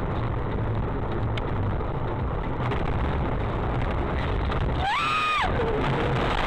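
Steady engine and road noise of a vehicle driving, heard through a dashcam microphone. About five seconds in, a short pitched sound rises, holds briefly and falls.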